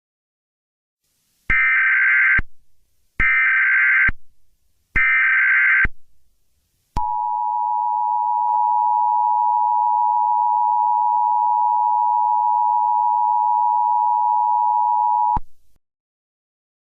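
Emergency Alert System header: three short bursts of screeching SAME data tones, about a second apart, then the steady two-tone EAS attention signal held for about eight seconds before cutting off. It announces the start of a new alert message.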